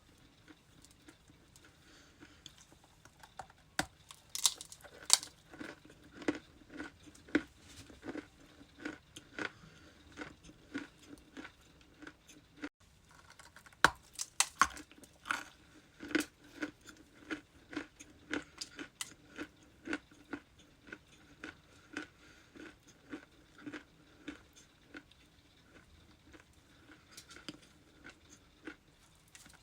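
Ice crunching between the teeth: a few loud, sharp bites, then steady chewing at about two crunches a second.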